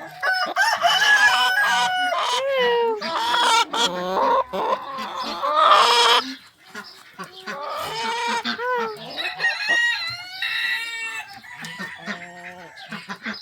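A flock of chickens clucking and calling over one another, with a rooster crowing among them.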